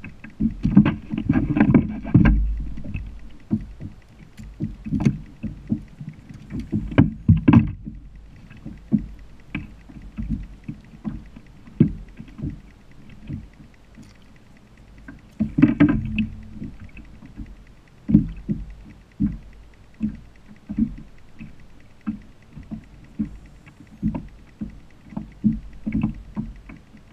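Knocks and water sounds from a kayak: a string of short thuds on the hull, often about a second apart, with busier, louder clusters of knocking near the start and a little past halfway.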